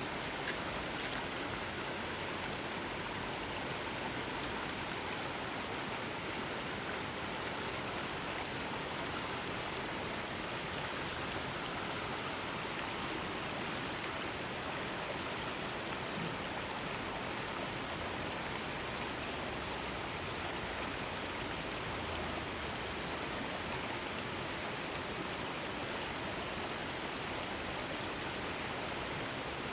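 Flowing river water rushing steadily, an even hiss with no change.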